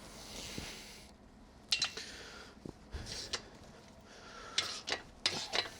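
Metal hardware and hand tools clinking and clicking as they are handled: a soft rustle at first, then scattered sharp clinks, clustering near the end.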